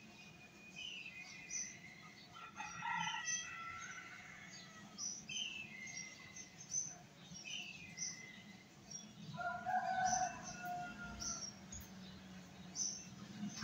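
Birds chirping with short, repeated calls about once a second, with two longer, lower calls about three and ten seconds in.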